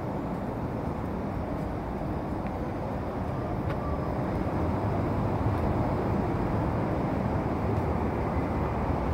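SBB passenger train rolling slowly past along the platform, a steady low running rumble that grows a little louder from about halfway through.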